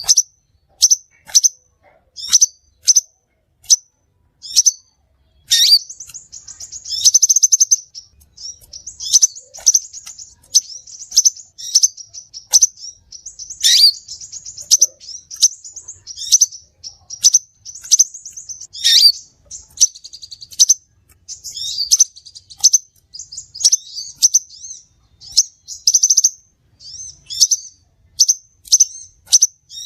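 Crimson sunbird (sepah raja) lure call: sharp, high chirps repeated about once a second, broken every few seconds by a longer, fast, buzzy trill.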